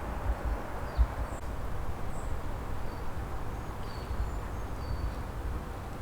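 Outdoor background: a steady low rumble and hiss, with faint, brief high chirps from small birds scattered through. There are two small knocks, one at the start and one about a second in.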